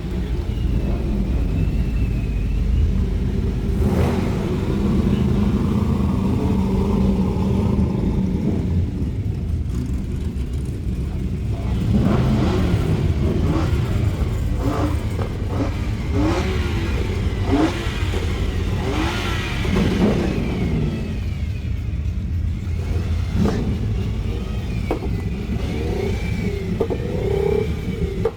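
Car engine running over a steady low rumble, its pitch rising and falling again and again through the middle stretch as it revs and accelerates.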